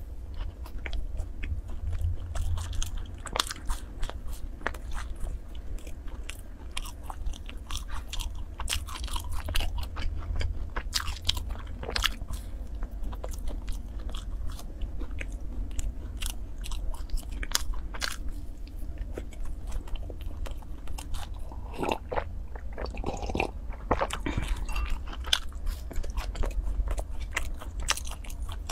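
Biting and chewing sachima, a Chinese fried-dough bar with raisins, with many short crackling clicks from the mouth throughout. A steady low hum sits underneath.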